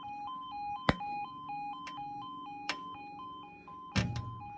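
Level crossing warning alarm sounding: an electronic two-tone yodel stepping back and forth between two pitches, a few steps a second. Two sharp clicks cut in, and a burst of low noise comes near the end.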